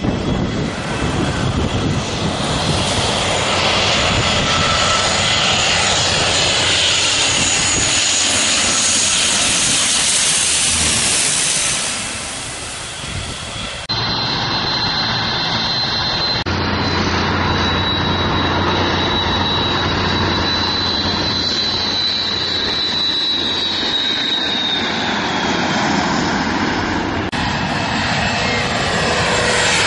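Jet airliner engines at close range, a loud, steady rush with a high turbine whine that falls slightly in pitch. The sound changes abruptly about halfway through and again near the end as one clip gives way to the next.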